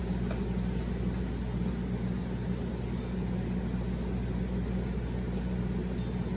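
Steady low hum with a hiss over it, the background noise of the room, with a few faint clicks.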